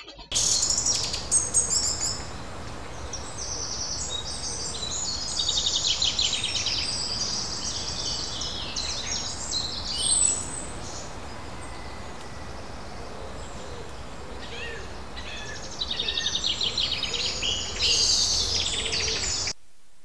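Small birds chirping and trilling, many high calls overlapping, over a steady low hiss. It starts and cuts off abruptly.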